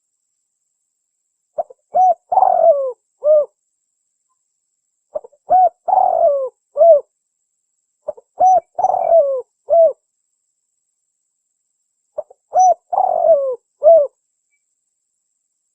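Spotted dove (tekukur) cooing: four phrases of several short coos each, every phrase under two seconds long, repeating every three to four seconds.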